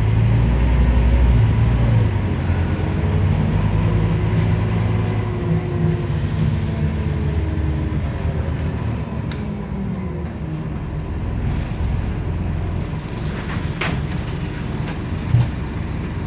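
Ride sound of a Scania CN270UB city bus: the engine running with its pitch rising and falling over the first several seconds, then settling lower and quieter. A few short clicks near the end.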